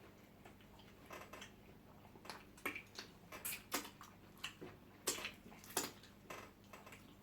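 Eating sounds from a pounded yam and soup meal: faint, irregular soft clicks and smacks of chewing and of food and plates being handled.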